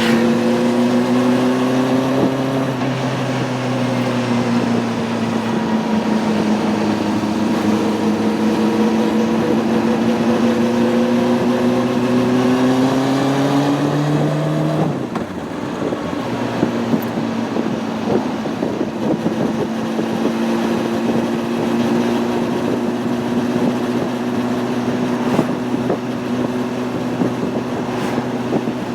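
Honda CB600F Hornet's inline-four engine running under way with wind and road noise. Its pitch sags and rises slowly, climbs steadily for several seconds, drops abruptly about halfway through, then holds steady.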